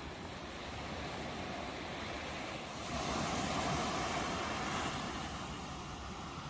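Ocean waves on a shore, a steady rush of surf; a wave breaks about three seconds in, louder for a couple of seconds, then eases.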